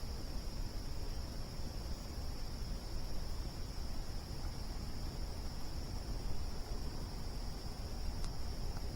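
Crickets trilling in one steady, unbroken high chorus over the low, crackly rumble of a campfire, with a single sharp crackle near the end.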